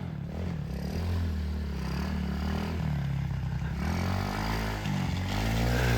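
Small 110 cc single-cylinder four-stroke pit bike engine being ridden, the revs rising and falling repeatedly as the throttle is worked on the trail.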